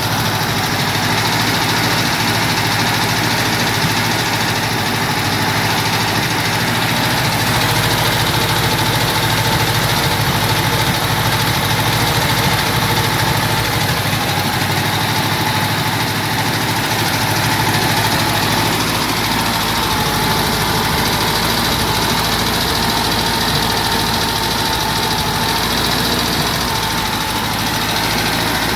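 Volkswagen Beetle's air-cooled flat-four engine idling steadily.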